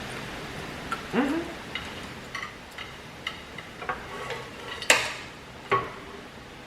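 Cutlery clinking and scraping against a plate during eating: a series of light clicks and short ringing clinks, the loudest a little before five seconds in, over a steady hiss.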